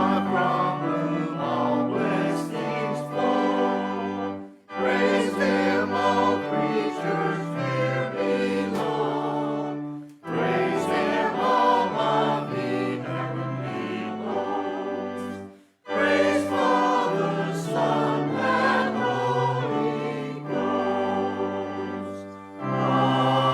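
Church choir singing a hymn with organ accompaniment, in four phrases of about five seconds each with short breaks between them, ending on a long held chord.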